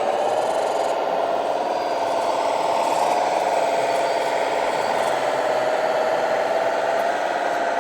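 Radio-controlled model truck running: a steady motorised whine that wavers slightly up and down in pitch.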